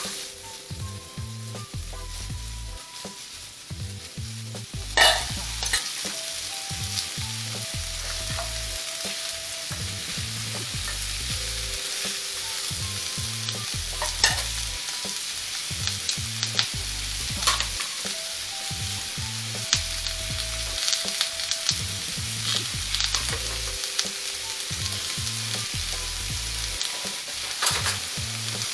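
Shrimp and vegetables sizzling on a hot flat-top griddle as they are stirred, with a few sharp clicks of metal tongs against the griddle, the loudest about five seconds in.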